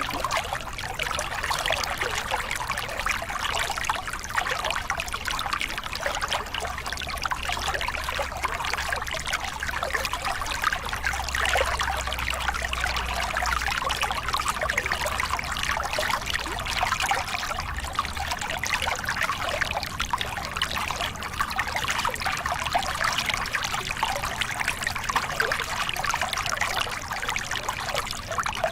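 Small river cascade: water splashing and pouring steadily over rocks in a dense, even rush, with a faint low rumble underneath.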